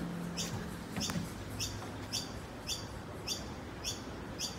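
A bird chirping over and over at an even pace, nearly two short, slightly falling chirps a second.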